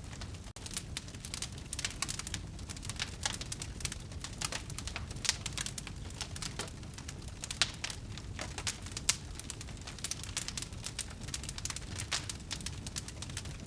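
Wood fire burning in a fireplace: a steady low rumble of flames under dense, irregular crackling, with a few louder pops about five, seven and a half and nine seconds in.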